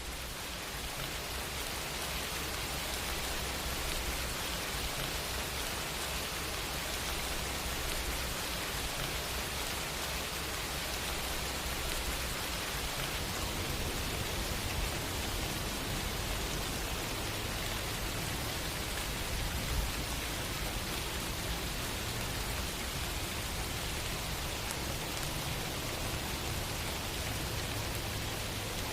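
Steady rain: an even, dense hiss of falling rain, fading up over the first few seconds and then holding level.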